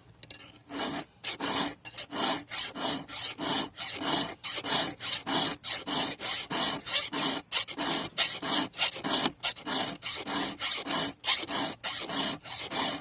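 Hand file rasping across the cutter teeth of a chainsaw chain in quick, even strokes, about three or four a second, starting about a second in. The chain is worn, its teeth filed down small.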